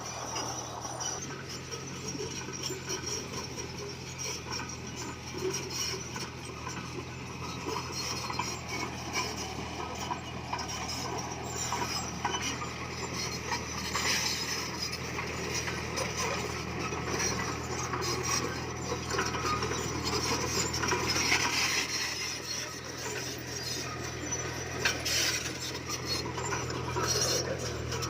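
Komatsu D20P crawler bulldozer running under load with a steady diesel drone, over a constant scraping and clinking of steel tracks and blade grinding through stone fill.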